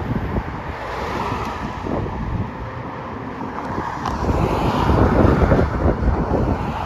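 Wind buffeting the microphone over road traffic noise, swelling louder about four seconds in as a vehicle goes by.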